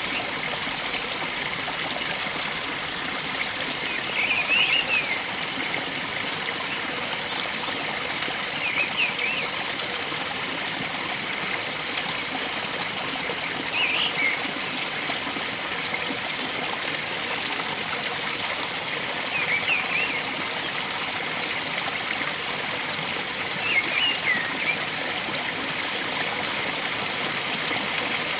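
Steady rush of flowing water with a bird giving a short chirping call about every five seconds.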